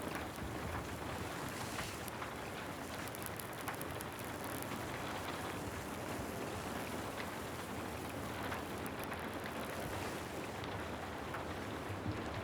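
Steady rain, a dense even patter with scattered sharper ticks of single drops.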